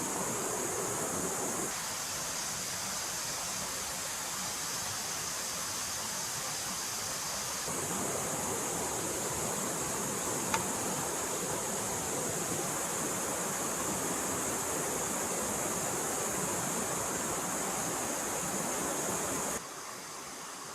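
Forest stream water flowing steadily, a continuous rushing with a high hiss. Its character changes abruptly twice, and there is one faint click about ten seconds in.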